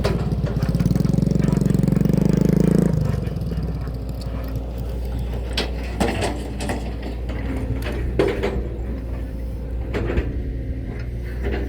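A motor vehicle's engine running close by: a loud, rhythmic engine sound for about the first three seconds, then dropping to a lower steady hum, with a few short sharp clicks or knocks later on.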